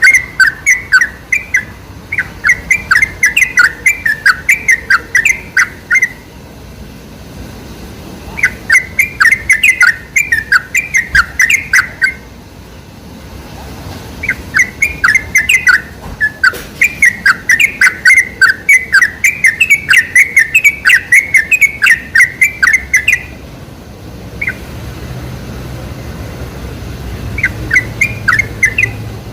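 Yellow-vented bulbul (trucukan) song: loud phrases of rapid chattering, bubbling notes, about four a second, repeated in several bursts of a few seconds each with short pauses between. This is a lure recording played to get captive bulbuls to sing.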